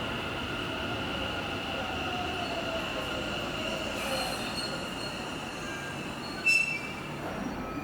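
Kintetsu electric train running through a station, its wheels and brakes giving a steady high squeal, with a whine that slowly falls in pitch as it slows. A brief, louder sharp squeak comes near the end.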